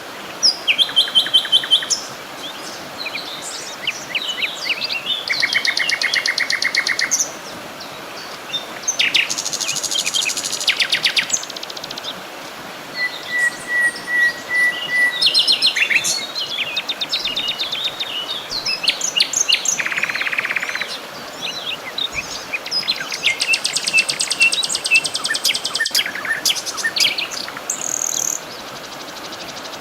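Several wild birds singing and calling over one another, with rapid trills, short whistles and chirps following one after another, over a steady background hiss.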